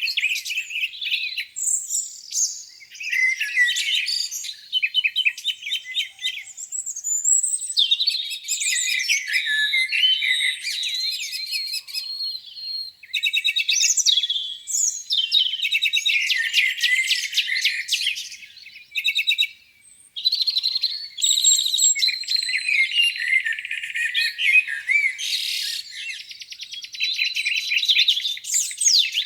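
Several songbirds singing at once, a busy chorus of overlapping chirps, rapid trills and whistles, with a brief lull about two thirds of the way through.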